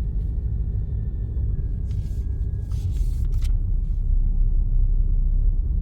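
Steady low road and engine rumble of a car being driven, heard from inside the cabin, with a few brief hissy bursts between about two and three and a half seconds in.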